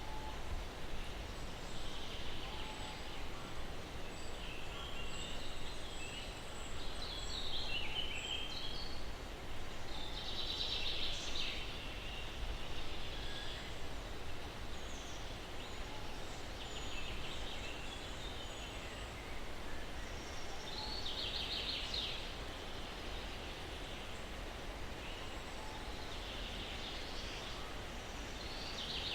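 Several birds calling intermittently over steady wind noise, some calls rapid trills, the loudest about ten seconds in.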